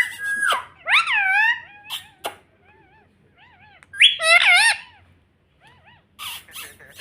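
Pet ringneck parrot calling: two loud squawks with swooping pitch, about a second in and about four seconds in, with soft short chirps between them.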